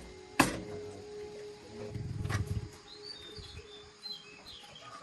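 Hammer blows on steel axle parts: a loud strike about half a second in and a lighter one about two seconds later, each leaving a ringing metallic tone. Faint bird chirps follow near the end.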